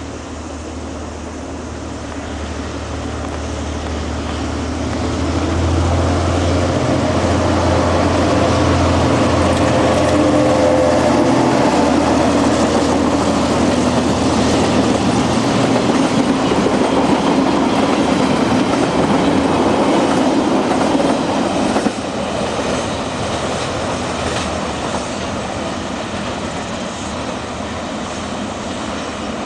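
Diesel-hauled freight train passing. The locomotive's low engine hum grows louder over the first several seconds and fades about halfway through, while the wagons' rolling noise on the rails carries on, dropping slightly and suddenly near the end.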